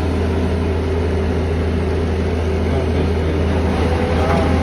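Heavy machinery running steadily with a deep, unbroken low drone.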